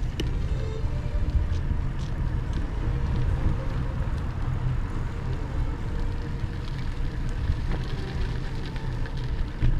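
Wind buffeting the microphone of a camera carried on a moving bicycle: a steady, heavy low rumble that keeps swelling and easing, with a few faint clicks.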